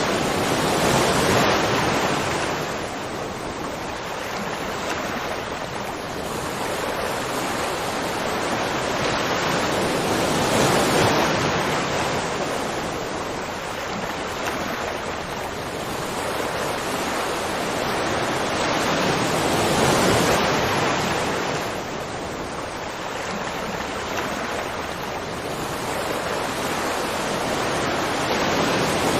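Waterfall: a steady, loud rush of falling water that swells and eases in slow surges about every nine to ten seconds.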